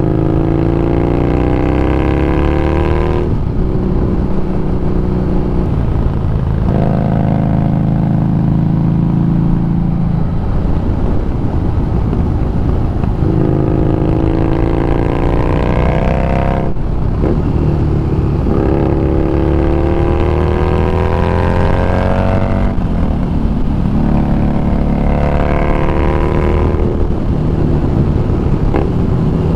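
Harley-Davidson Street Rod 750's V-twin engine under way, revving up through the gears: the pitch rises and drops at each shift, about four times, with steadier running between.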